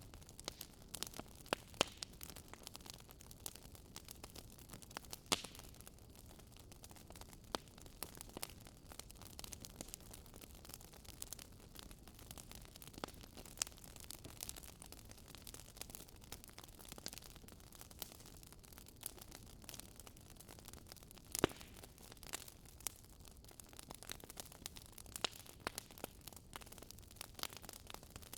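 Wood fire crackling: a low steady hiss with irregular snaps and pops, one louder pop about three quarters of the way through.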